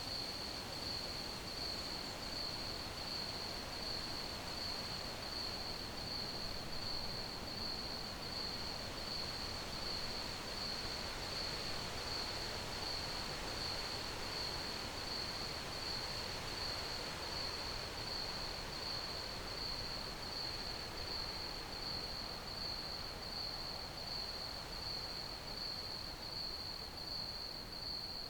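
Crickets chirping steadily in an even, rapid pulse at one high pitch, over a constant soft hiss.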